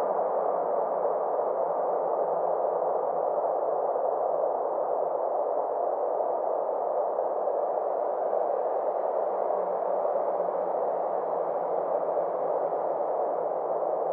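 Synthesized space-ambience drone: a steady band of filtered noise with a faint low hum beneath and slow, gentle sweeps along its upper edge.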